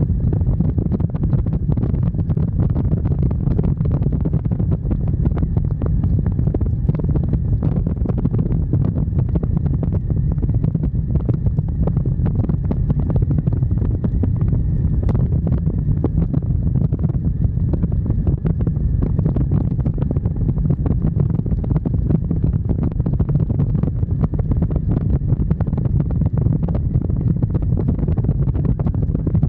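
Steady wind rush buffeting the microphone on a moving motorcycle, with a low rumble of engine and road noise underneath.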